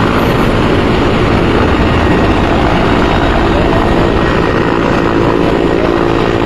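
Helicopter running, its rotor and engine a loud, steady noise.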